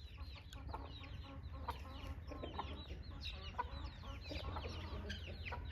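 Birds calling: many short, falling chirps overlapping one another, over a steady low hum.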